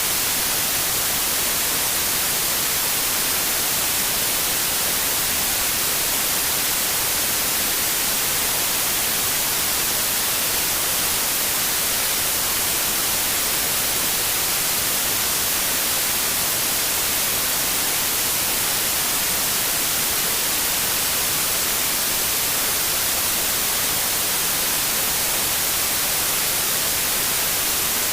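Steady white noise: an even, unchanging hiss with its energy weighted toward the high frequencies.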